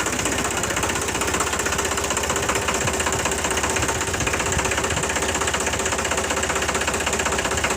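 Tractor's diesel engine running at a steady speed, with a fast, even firing beat.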